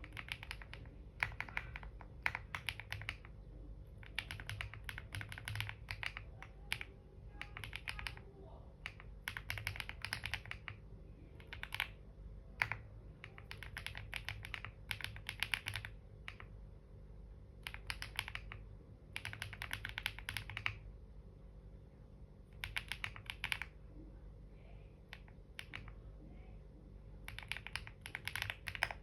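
Computer keyboard typing in bursts of rapid keystrokes separated by short pauses.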